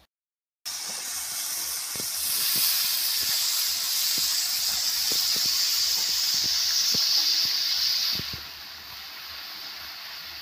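Chopped bottle gourd sizzling in a hot pan over a wood fire: a loud steady hiss that starts suddenly, with scattered light pops, and drops to a softer hiss about eight seconds in.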